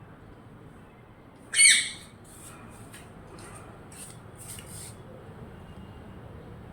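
A parrot gives one loud, harsh squawk about a second and a half in, followed by a run of short, faint, high-pitched chirps.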